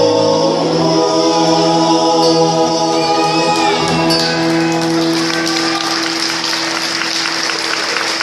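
A folk vocal group sings the song's final chord, with long notes held together. Audience applause and cheering start about halfway through and build over the fading chord.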